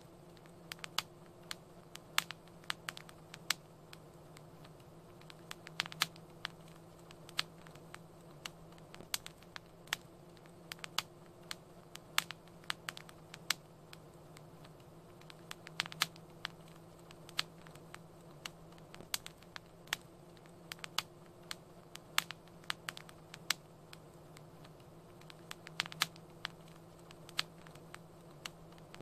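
Wood fire crackling in a fireplace: irregular sharp pops and snaps, several a second, over a low steady hum.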